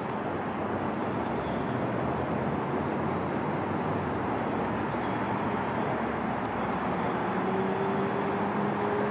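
Pacific Surfliner passenger train running past, a steady rumble, with a low hum coming in about seven seconds in.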